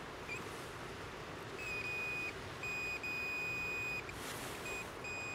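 Digital multimeter on its continuity setting beeping on and off in irregular spells, a longer beep of about a second in the middle and short blips near the end, as a hair dryer's power cord is tested. The broken-up beeping is the sign of an intermittent break in the cord's wire, "断断续续" (on and off).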